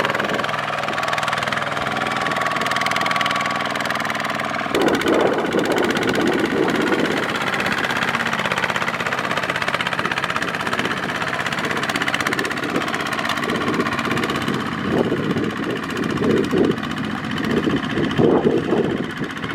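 Kubota mini tractor's single-cylinder diesel engine running. It gets louder and rougher about five seconds in and again near the end.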